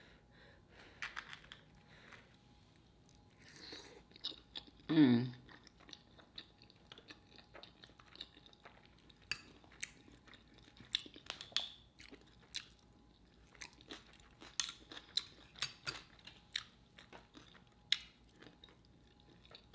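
Close-miked chewing of a mouthful of enchiladas and chips, with many short, sharp wet clicks and crunches. A short hummed 'mm' falls in pitch about five seconds in.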